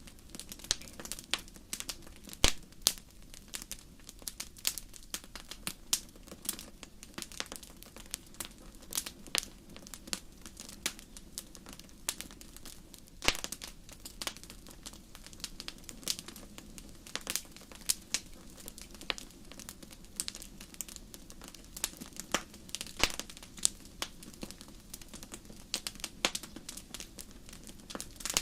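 Wood fire crackling in a fireplace: irregular sharp pops and snaps, several a second, over a low steady hiss, with a louder pop about two and a half seconds in.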